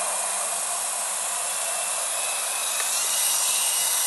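AeroQuest radio-controlled toy helicopter's small electric motor and rotor blades whirring steadily, the whine rising slightly in pitch partway through.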